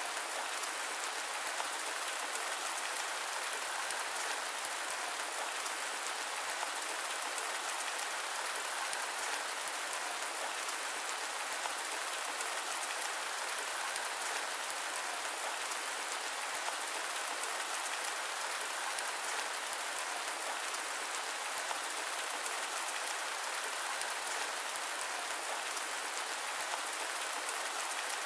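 Steady rain falling on a surface: an even, unbroken hiss with no thunder or other events.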